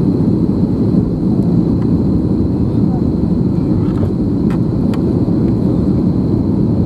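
Steady low rumble of an Airbus A321 in flight, the noise of its engines and airflow, with a few faint clicks.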